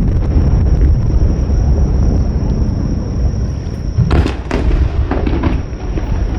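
Aerial fireworks bursting: a dense low rumble of shell bursts echoing, then a cluster of sharp crackling bangs about four seconds in.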